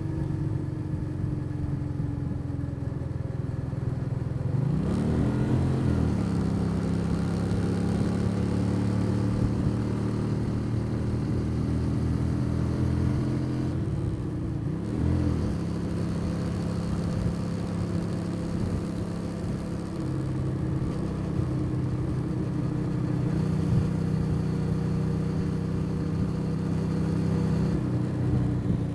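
Motorcycle engine running steadily under way, with a steady rushing noise over it. Its pitch rises and falls briefly twice, about five seconds in and again about fifteen seconds in.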